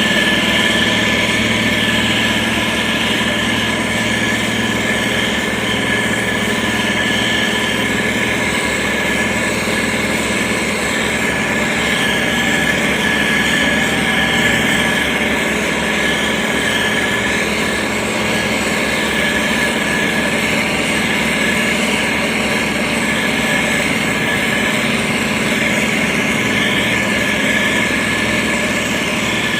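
Heavy road-construction machine's engine running steadily under continuous work, with a constant high whine over the engine's running and no change in speed.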